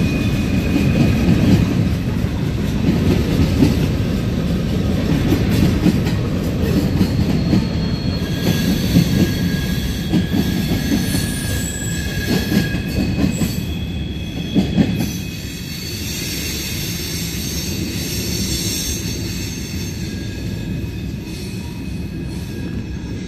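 Tail end of a freight train of hopper and tank cars rolling through a road crossing: steel wheels rumbling and clacking over the rails, with thin steady high tones over the rumble through the middle. The rumble drops about fifteen seconds in as the last car passes, then slowly fades.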